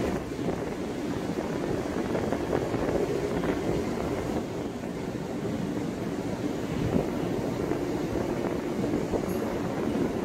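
Passenger coaches of a long-distance train rolling past along the platform: a steady rumble and clatter of wheels on the rails.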